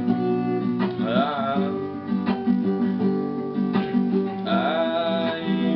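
Acoustic guitar strumming chords in an instrumental break between sung lines of a song, with a wavering melody line coming in twice over the accompaniment.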